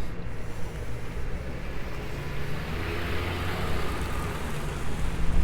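A vehicle passing on wet, slushy pavement, its tyre hiss swelling and fading about halfway through, over a steady low rumble.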